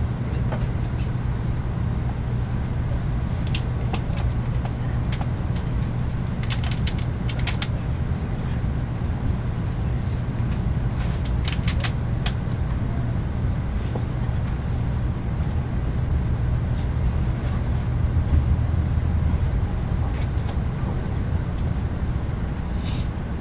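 Steady low rumble of a Tokaido Shinkansen train running, heard from inside the passenger cabin, with a few short patches of faint clicking.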